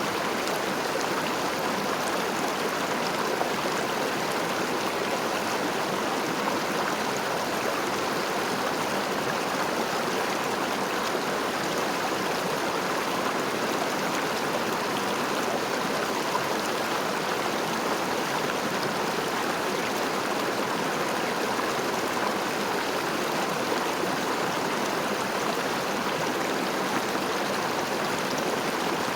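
River water flowing in a steady, unbroken rush, with no changes or separate splashes.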